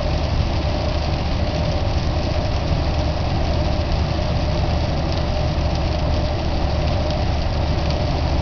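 Steady engine and road noise heard inside a moving car, an even rumble with no sudden sounds.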